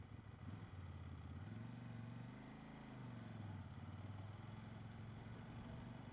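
CF Moto 800MT Explore's 799 cc parallel-twin engine running at low speed, heard faintly; its note rises briefly about two seconds in and eases back down.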